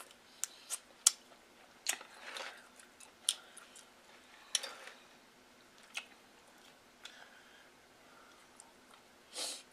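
Close-miked eating sounds of king crab meat: wet chewing and lip smacks with scattered sharp clicks. A short, louder burst of noise comes near the end.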